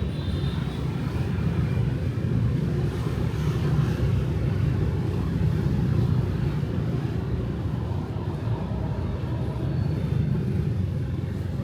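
Steady low rumble of city street traffic: motorbike and car engines and tyres, with no single vehicle standing out.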